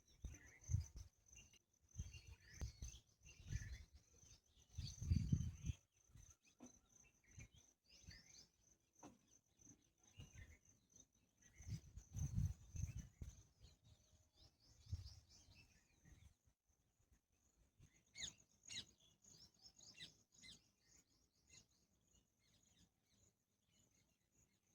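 Faint birdsong outdoors: scattered short chirps, busier in the last few seconds, over a steady high-pitched whine. Low rumbles come and go, loudest twice in the first half.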